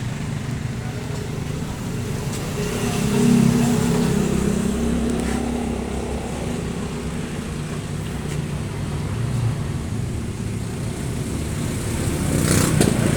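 A car engine running at idle, with a louder swell about three seconds in.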